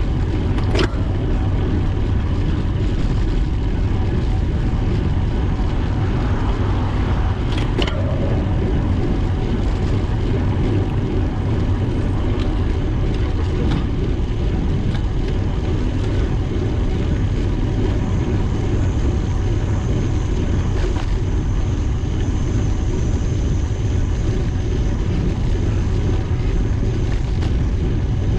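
Steady wind and road rush on the microphone of a camera riding along on a bicycle, low and even, with a couple of brief clicks.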